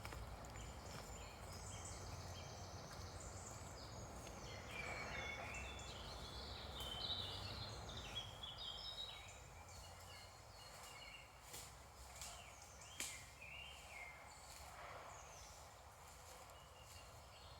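Morning chorus of several songbirds singing at once, many short overlapping chirps, trills and whistles, over a faint low rumble that eases about halfway through.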